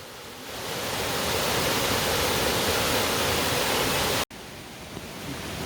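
Mountain stream running over rocks, a steady rush of water that grows louder about a second in, then cuts off suddenly about four seconds in to a quieter stretch of the same stream sound.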